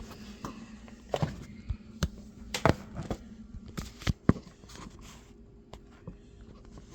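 Scattered knocks and clatters of kitchen items being handled and set down on a counter, a dozen or so sharp taps, loudest about two and a half and four seconds in, over a faint steady hum.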